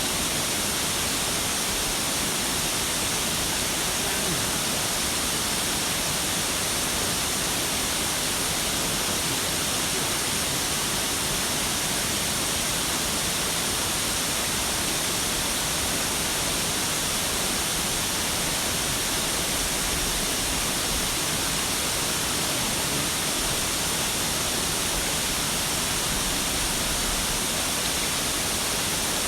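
Waterfall's falling water, a steady, unbroken rush.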